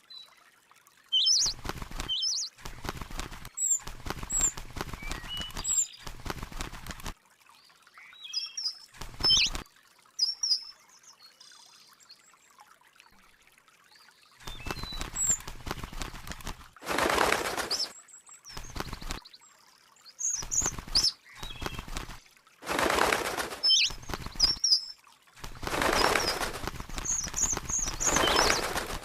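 A small bird giving short, high chirps, with repeated bursts of wing flapping that come in flurries of about a second each.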